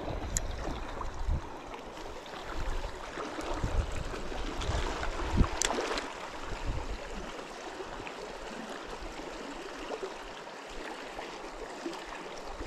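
Steady rushing of river water, with some low thumps and knocks in the first half and one sharp click a little past the middle.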